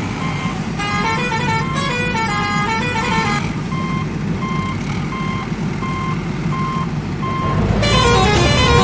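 Cartoon vehicle sound effects: a low, steady engine rumble with a reversing alarm beeping about twice a second through the middle. A tinkling melody of quick rising and falling notes plays over it for the first few seconds and comes back near the end.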